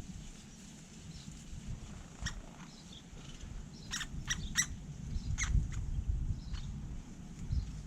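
Great spotted woodpecker giving short, sharp 'kik' calls: one, then a quick run of three close together about four seconds in and another a second later, over a low rumble.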